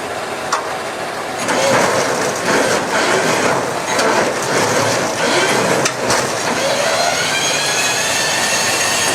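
Heavy vehicle and machinery noise, with clattering knocks and a rougher, louder stretch from about a second and a half in. A high, steady squeal sets in about seven seconds in.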